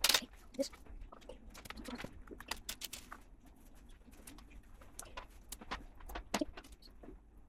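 Small plastic LEGO pieces clicking and tapping as they are handled and pressed together, a quick irregular run of light clicks, with a few short, soft low sounds in between.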